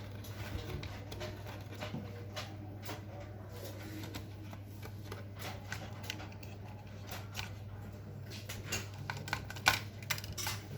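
Light rustling and small clicks of a flatbed scanner's parts being handled and wiped clean, over a steady low hum. The clicks come thicker and louder near the end.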